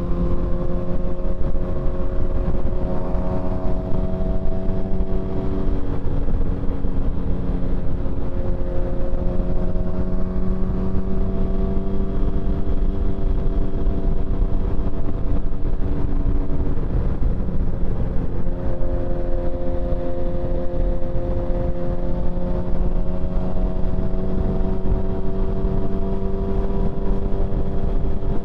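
Motorcycle engine running at road speed, its pitch slowly rising and easing off several times with the throttle, over a heavy low wind rumble on the microphone.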